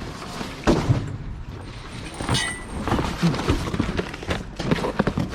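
Garbage truck running, with a series of sharp knocks and thuds, the loudest about a second in.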